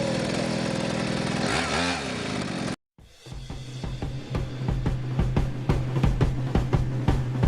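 Small motorcycle engine running, its pitch dipping and coming back briefly, then cut off abruptly. After a moment's silence, music with a steady drum beat and bass starts.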